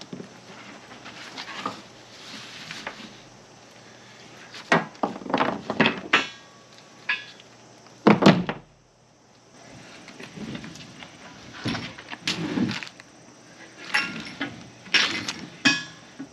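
Heavy metal parts of a two-man football tackling sled being handled and set down: irregular knocks and clanks, a few with a short ring, and one heavy thud a little past halfway.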